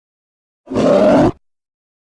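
A single demonic grunt vocal sound effect, loud and low-pitched, lasting under a second.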